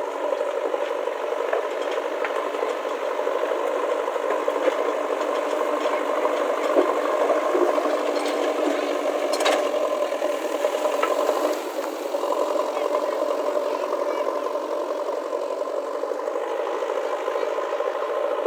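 A steady engine-like drone with rattling and scattered clicks over it.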